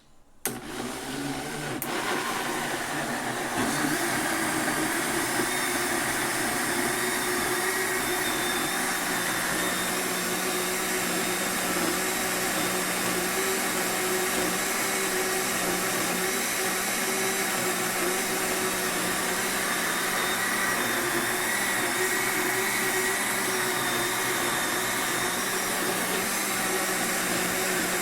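Kitchen blender motor switched on about half a second in, coming up to speed over the next few seconds, then running steadily at full speed.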